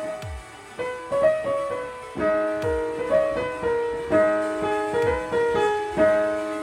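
Piano being played: single notes and chords struck one after another at a slow, uneven pace, each left to ring and fade.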